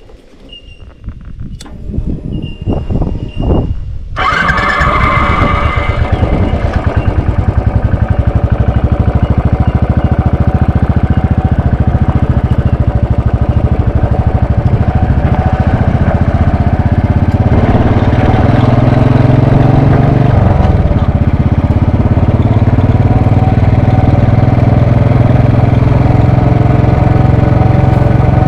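Royal Enfield Bullet 500's single-cylinder engine starting after a few clicks, catching about four seconds in and settling into a steady, evenly pulsing idle. There is a brief change in its note about two-thirds of the way through.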